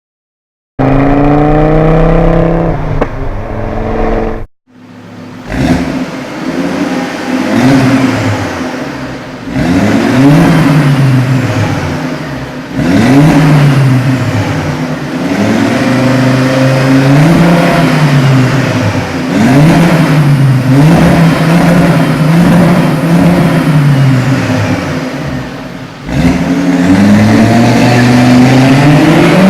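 Volvo C70 five-cylinder engine revving, its pitch climbing and falling again every two to three seconds. The sound cuts out briefly about four and a half seconds in, then the revving resumes.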